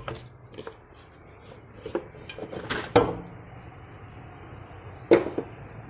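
Plastic clicks and knocks as the car's HVAC air-box housing is unclipped and its halves pulled apart, a handful of separate knocks with the loudest about three seconds in and another near the end.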